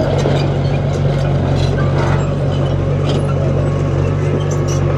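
Heavy diesel earthmoving machine running steadily under load, a deep engine hum with scattered clinks and knocks of metal and stone over it.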